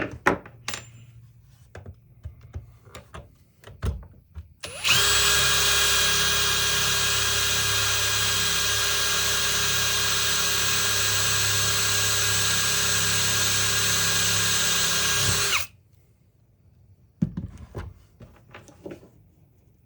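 Power drill running steadily at one speed for about ten seconds, drilling into a stripped screw, starting and stopping abruptly. Clicks and knocks of handling before and after it.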